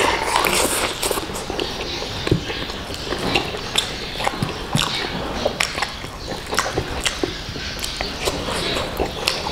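Close-miked mouth sounds of a person eating chicken biryani: chewing with many wet lip smacks and clicks, irregular and several a second.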